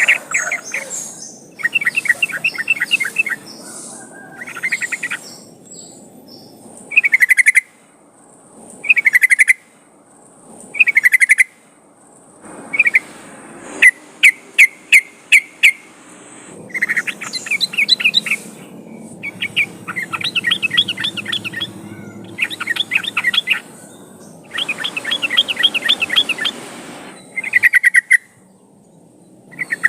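Yellow-vented bulbul (trucukan) song: short bubbly phrases of quick liquid notes, repeated every second or two with brief pauses, some phrases breaking into fast chattering runs. This is a lure recording meant to set caged trucukan singing.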